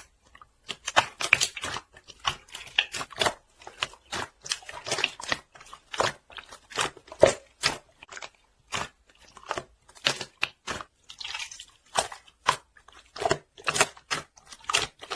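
Slime being squeezed and poked by hand: a fast, irregular run of sticky clicks, pops and crackles.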